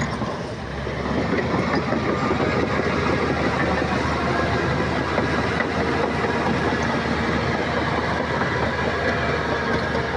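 Shantui crawler bulldozer working: its diesel engine runs with a steady clatter of steel tracks. The sound dips briefly just under a second in, then picks up again.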